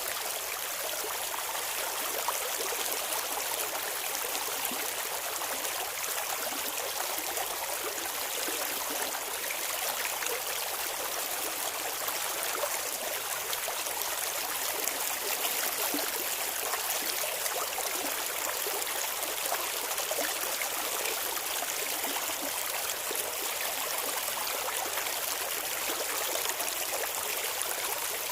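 Clear river water running and babbling over rocks, a steady even rush with fine trickling detail.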